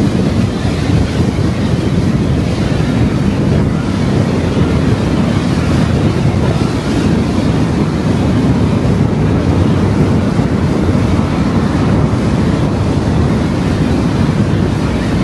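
Steady road and wind noise of a car on the move, a dense low rumble that never lets up.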